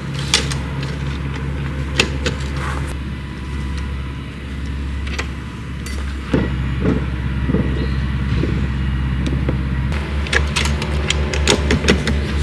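A car engine running steadily, its low hum shifting pitch a couple of times, with scattered sharp clicks and knocks, more of them near the end.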